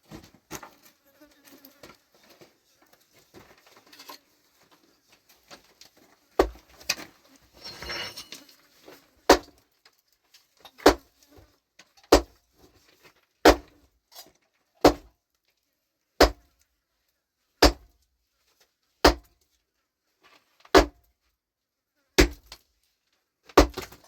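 Heavy hammer blows striking rock, a few irregular knocks and a scrape at first, then settling into a steady rhythm of one hard strike about every second and a half.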